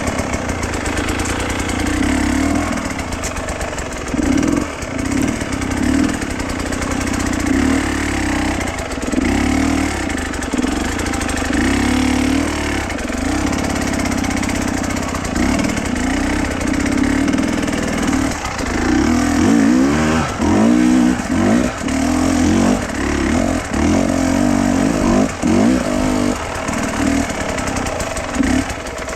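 A vehicle engine running steadily under load, its pitch dipping and rising again and again, more often in the second half.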